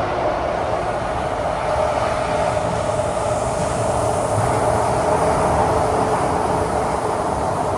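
Kawasaki–CRRC Qingdao Sifang CT251 metro train running at speed through a tunnel, heard from inside the carriage: loud, steady wheel and tunnel noise with a steady whine running through it.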